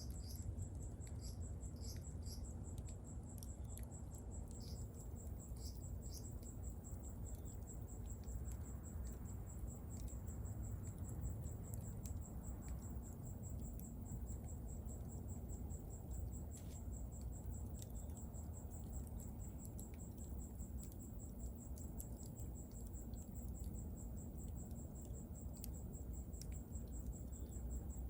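Wood bonfire burning, with scattered pops and crackles over a low steady rumble, while a high-pitched steady pulsed trill runs on behind it.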